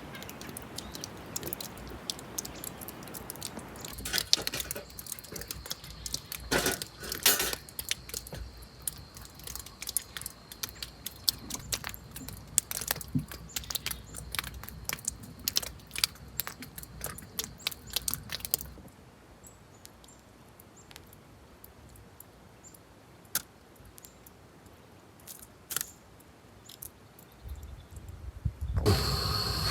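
Irregular small clicks, clinks and knocks, dense for about the first two-thirds, then sparse over a quieter background near the end.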